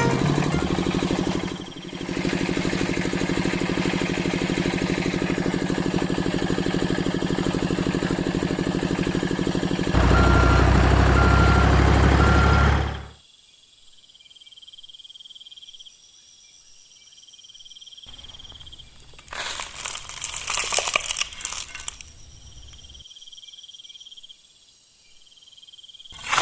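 An engine running steadily, louder for its last few seconds, then cutting off suddenly about halfway through. After that there is a faint low hum, with a brief burst of rustling, crunching noise a little later.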